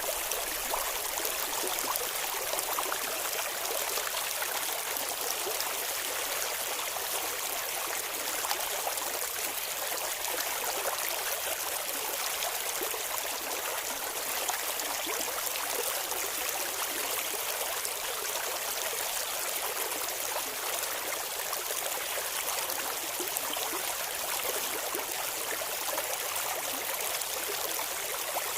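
Shallow clear river flowing and babbling over stones: a steady rushing hiss full of small splashes and trickles, with little low rumble.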